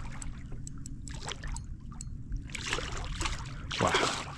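Water lapping and trickling around a fishing kayak, with many small scattered ticks and a couple of brief louder rushes of water noise near the end.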